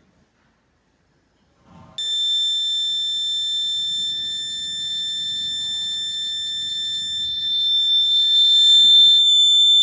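Piezo buzzer on an Arduino rain-detection circuit sounding a steady high-pitched tone: the rain alert set off when the raindrop sensor detects water. It starts suddenly about two seconds in and cuts off right at the end.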